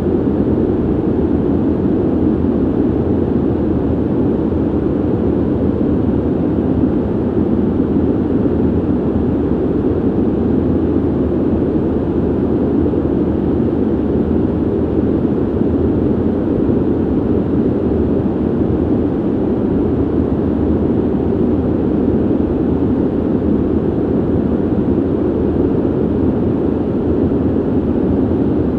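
Ventilation noise: a steady, low whoosh of air with little treble that holds constant without any change.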